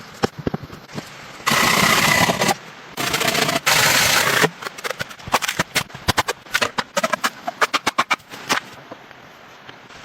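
Hand-tool work: three long rasping strokes, each about a second, then a quick, irregular run of sharp taps and knocks.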